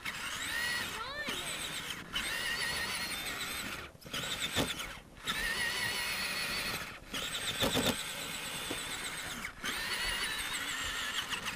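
Traxxas Summit RC truck's electric motor and geared drivetrain whining in bursts as the throttle is pressed and let off. The pitch rises as each burst spins up and then holds, with short breaks between bursts.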